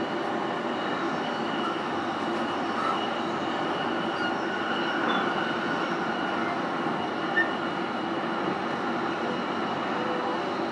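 Inside a JR East E233 series motor car (MoHa E232) running between stations: steady rolling and running noise from the wheels and under-floor equipment.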